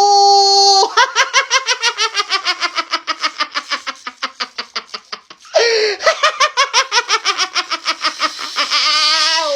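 A steady held note for the first second, then long, rapid, evenly pulsed laughter that falls in pitch, breaks off briefly a little past halfway, and starts again.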